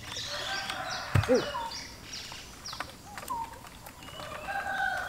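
Birds calling: a quick series of high chirps, each falling in pitch, with a lower call about a second in and a few sharp knocks scattered through.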